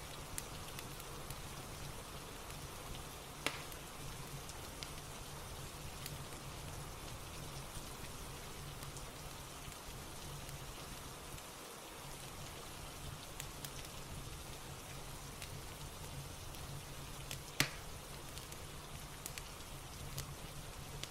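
Steady rain ambience with a soft fireplace crackling through it: scattered small pops, two sharper ones about three seconds in and a few seconds before the end, over a low steady hum.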